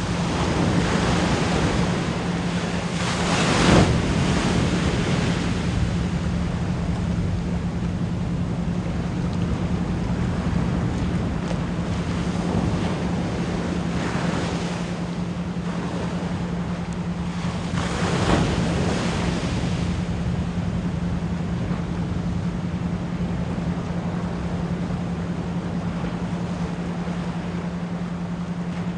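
Ocean waves washing in as a steady rush, surging louder about three seconds in, around fourteen seconds and again around eighteen seconds, under a constant 174 Hz pure tone pulsed as an isochronic beat.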